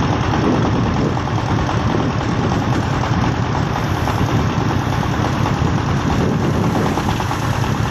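Single-cylinder diesel engine of a công nông farm truck running steadily with a fast, even chugging.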